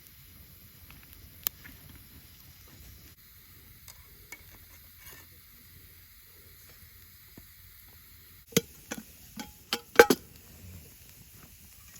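Camp cooking gear clinking and knocking: a single sharp click early, then a quick run of about six sharp knocks, the loudest near the end, over a faint steady background.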